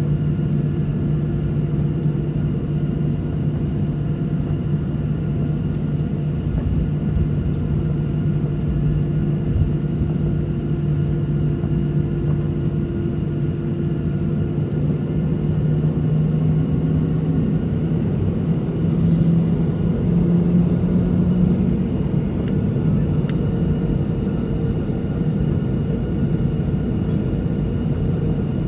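Airliner engines heard from inside the cabin: a steady low rumble with a steady hum. The hum climbs a little in pitch past the halfway point, then drops back.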